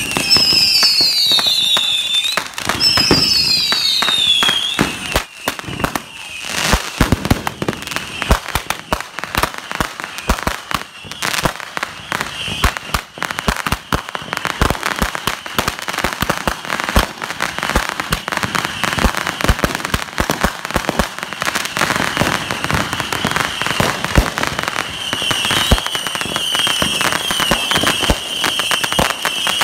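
Consumer fireworks going off: a dense, continuous run of rapid bangs and crackling. Two falling whistles sound in the first few seconds.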